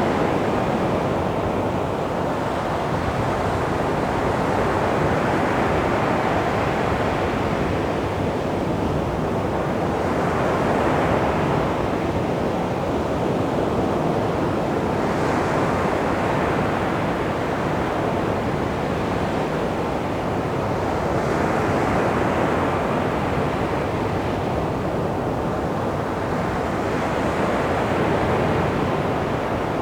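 Calm sea waves washing onto a beach: a steady surf hiss that swells and eases as each wave breaks, every several seconds.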